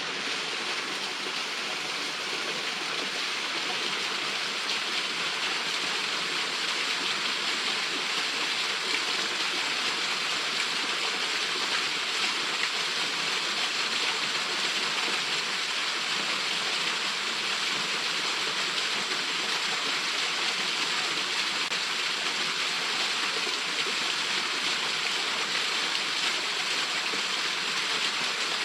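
A small waterfall pouring steadily into its pool: a continuous, even rush of falling water.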